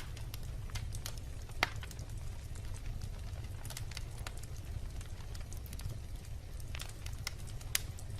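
Wood campfire burning with a steady low rumble of flame and irregular sharp crackles and pops of burning wood, two of them louder, about a second and a half in and near the end.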